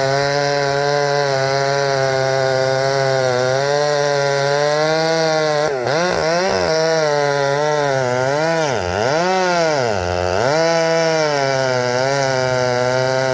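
Two-stroke chainsaw running at high revs while cutting wood. Its pitch holds steady at first, then drops and climbs back several times in the second half as the chain bogs under load in the cut.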